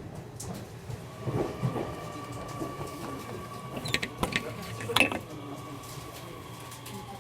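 Nishitetsu electric train slowing down to arrive at a station: a thin steady motor whine that slides down in pitch near the end, over a low rumble. A few sharp clicks and knocks from the wheels come about four to five seconds in.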